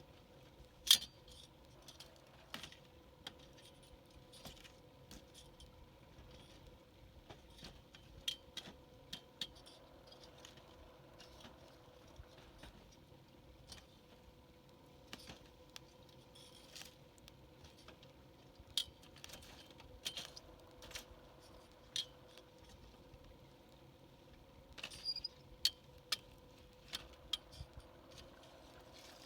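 Wood campfire crackling with sharp, irregular pops and snaps, one loud pop about a second in and denser clusters near the middle and near the end, as the fire burns down toward embers.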